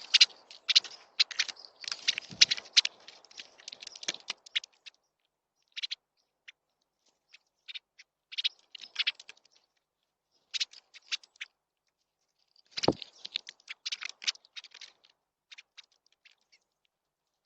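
Birds at a feeder: bursts of short, sharp high chirps and clicks in clusters, with a single knock about thirteen seconds in.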